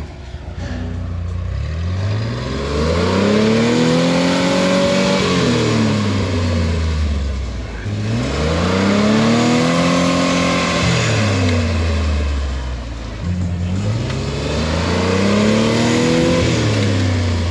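Off-road rock crawler's engine revving hard under load on a steep rock climb: three long surges, each rising in pitch and falling back over several seconds.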